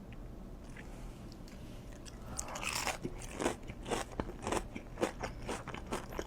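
A person biting into and chewing food, mouth close to the microphone. It is quiet at first; a bite comes about two and a half seconds in, then a run of short crunchy chewing clicks, several a second.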